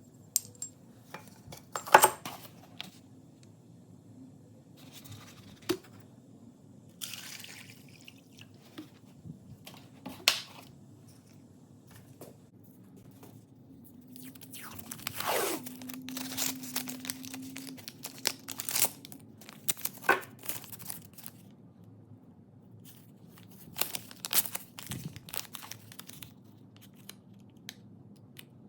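Workshop handling noises: scattered clicks and knocks, with a longer scraping, rustling stretch about halfway through.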